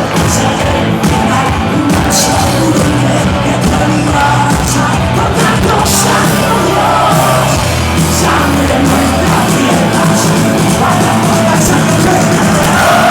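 A band playing loud music live, with a singer yelling over it.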